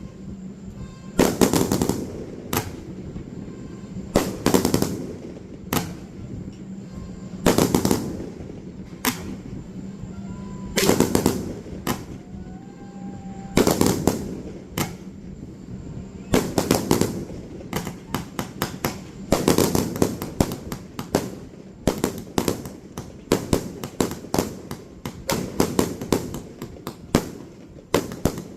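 Fireworks display: heavy booms every one to three seconds, with crackling and quick runs of pops between them. The pops come thicker in the second half.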